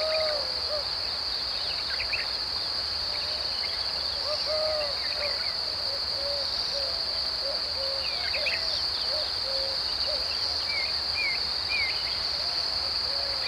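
Woodland ambience: insects drone steadily at one high pitch. Under the drone, birds repeat short low hooting notes several times a second, and there are scattered higher chirps.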